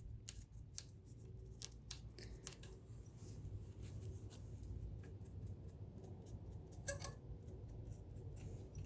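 Irregular small clicks, taps and scrapes of metal parts of a vintage all-metal sewing machine being handled and cleaned by hand, over a low steady hum.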